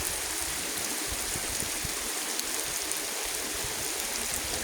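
Steady rain falling: an even hiss with small scattered drop ticks.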